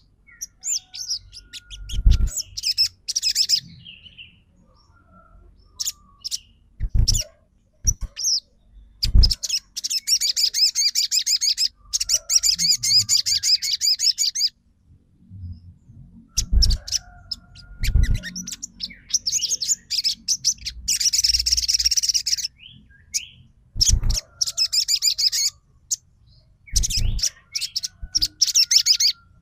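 Crimson sunbird (sogon) singing in bursts of fast, high, chattering trills a second or more long, broken by short pauses, with occasional dull thumps between the phrases.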